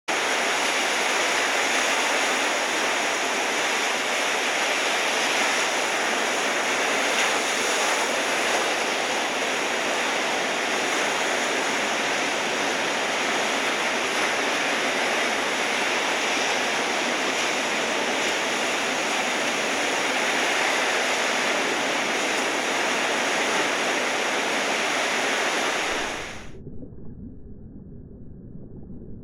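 Steady hiss of breaking ocean surf with wind, even throughout, cutting off abruptly about three seconds before the end to a quieter, muffled low rumble.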